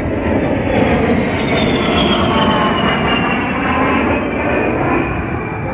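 Military aircraft flying past: loud engine noise with a high whine that falls slowly in pitch as it goes by.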